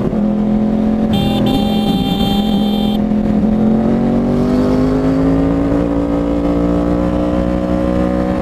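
2011 Yamaha R1's crossplane-crank inline-four with a Toce full-system exhaust, pulling steadily under way; its pitch rises gradually through the second half as the bike accelerates. A shrill steady tone sounds for about two seconds near the start.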